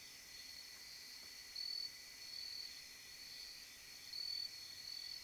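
Chorus of night insects, a steady high trill that swells louder about once a second.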